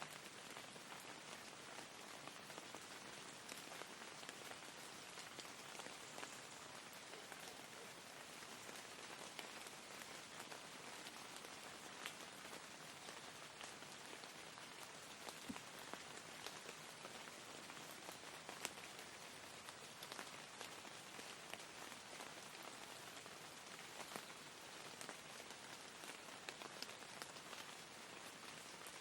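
Steady rain falling: a soft, even hiss with scattered sharper drop taps.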